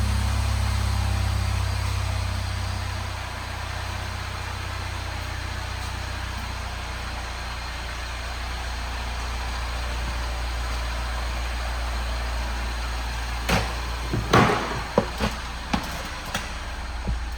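A Mini Cooper Countryman's 1.6-litre four-cylinder engine idling steadily. Near the end come a handful of sharp knocks and clicks.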